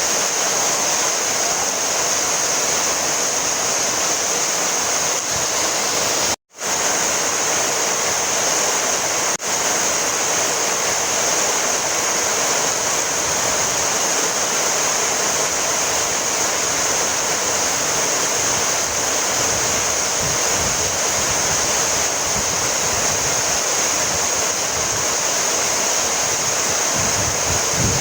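Heavy rain falling steadily. The sound cuts out for a split second about six seconds in.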